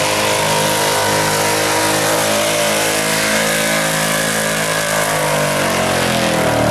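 Truck engine running hard under load as it pulls the sled, holding steady revs, with the pitch falling in the last second or so as it comes off the throttle.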